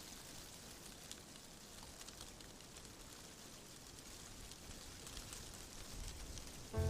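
Fireplace crackling: a steady soft hiss with scattered small pops, over a faint low rumble. Music starts right at the end.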